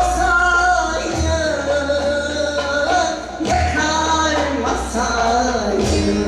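Turkish folk song (türkü) performed live: singing over instrumental accompaniment.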